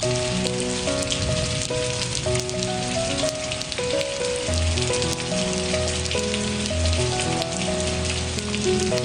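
Steady rain falling, a constant hiss with scattered sharp drop ticks, mixed with slow, gentle music of held notes that change every second or so.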